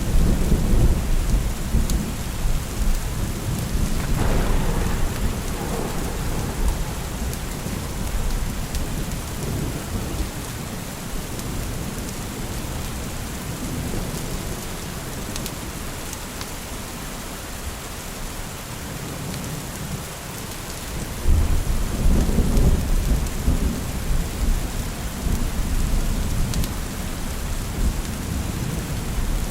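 Steady rain falling, with rolls of thunder rumbling over it: one at the start, a smaller one about four seconds in, and the loudest about twenty-one seconds in.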